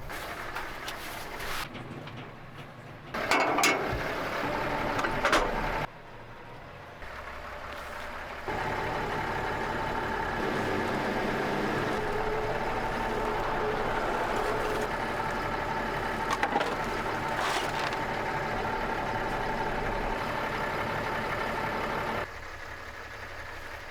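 Tractor engine running, with loud clattering knocks a few seconds in, then a steady engine hum with a higher whine from about eight seconds on, changing abruptly several times.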